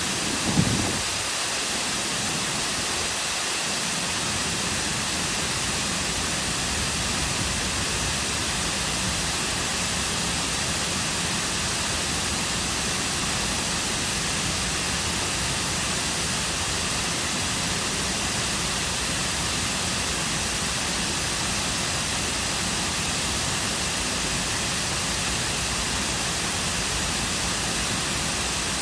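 Man-made cascading waterfall, water falling and splashing in a steady, even rush. A brief low thump comes about half a second in.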